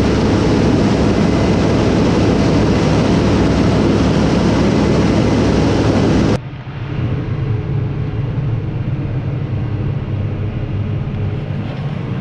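Loud, steady running of harvest machinery. About six seconds in it cuts off suddenly, and a quieter, steady engine drone with a low hum follows.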